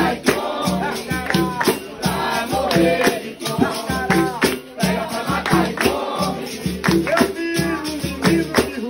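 Capoeira roda music: berimbau with its caxixi rattle and drum keeping a steady rhythmic beat, under group singing.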